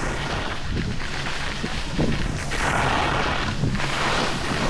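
Wind rushing over the microphone of a skier moving downhill, with the hiss of skis sliding on snow, louder for a second or so about halfway through.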